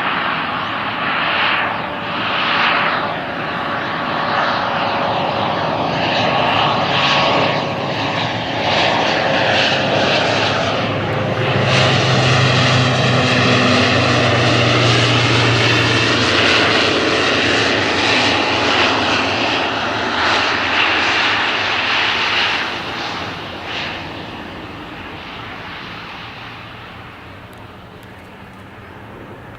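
Airliner passing close by, its engine noise swelling to a peak around the middle with a sweeping, shifting tone, then fading away toward the end.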